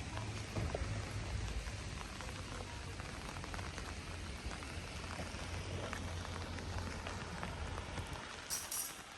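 Steady rain falling, an even hiss with many small drop ticks. A low rumble underneath fades out about eight seconds in.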